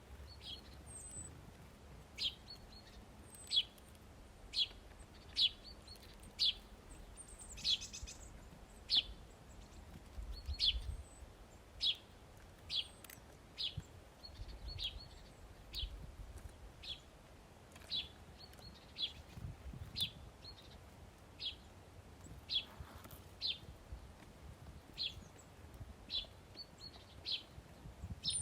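A small songbird giving short, sharp chirps, repeated steadily about once a second, with a few thin high notes near the start, over a faint low outdoor rumble.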